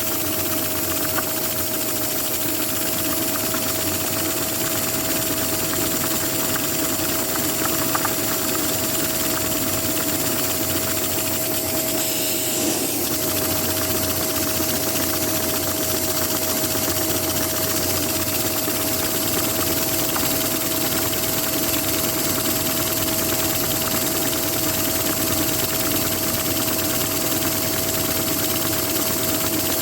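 Vacuum cleaner running steadily with a constant whine, drawing air through a Lego vacuum-powered inline two-cylinder engine to keep it turning.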